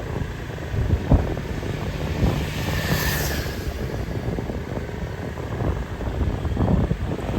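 Street noise of passing motor vehicles: a steady low engine rumble, with a hiss that swells about three seconds in and a few short knocks.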